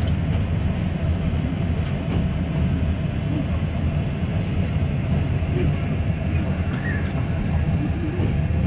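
A train running, a steady low rumble with no clear beat.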